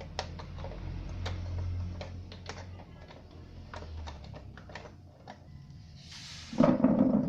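DB Audio power amplifier giving off a low, steady mains hum, its fault, which fades out about five seconds in. Scattered sharp clicks and taps run through it, and a louder, noisier clatter comes near the end.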